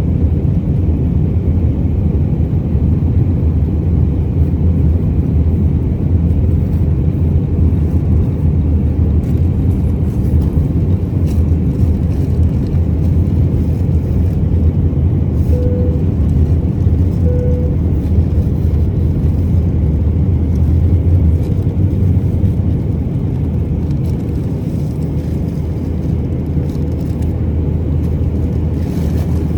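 Steady jet engine and airflow rumble heard inside the cabin of an Airbus A319-131, whose engines are IAE V2500s. Two short faint beeps come a second or two apart midway through, and the rumble eases a little later on.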